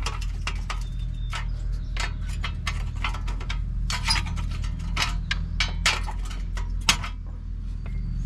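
Repeated sharp hammer blows, roughly two a second at uneven spacing, striking a Ford Super Duty front wheel hub assembly to break it loose from the steering knuckle. A steady low hum runs underneath.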